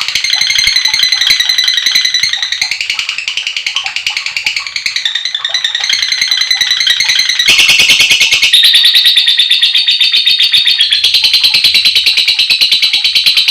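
A lovebird giving its long 'ngekek' chatter: an unbroken, rapid, shrill run of notes. The tone shifts about halfway through and again near the end.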